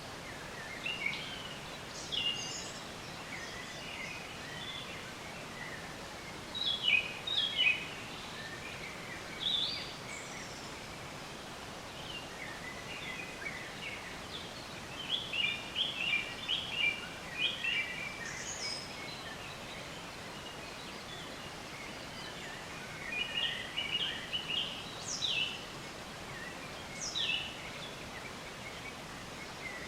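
Several songbirds chirping and trilling on and off in short bursts, over a steady faint background hiss.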